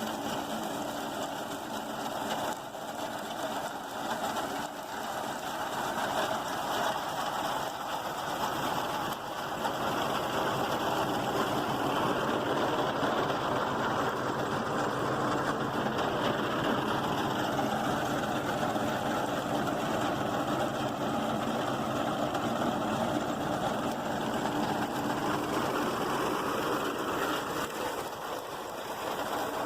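Tractor diesel engine running steadily, driving a tractor-mounted reaper binder. The sound grows a little louder about ten seconds in.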